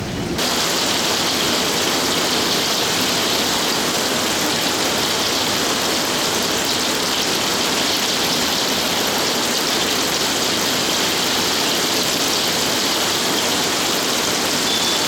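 Heavy rain pouring down in a thunderstorm downpour: a steady, dense hiss that sets in sharply about half a second in and holds evenly.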